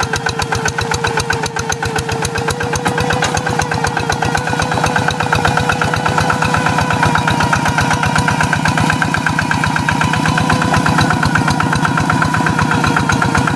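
Single-cylinder diesel engine of a hand tractor running steadily, with a rapid, even chugging beat.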